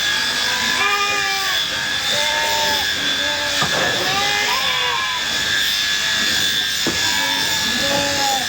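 Electric sheep-shearing handpiece running with a steady high whine, while sheep bleat repeatedly.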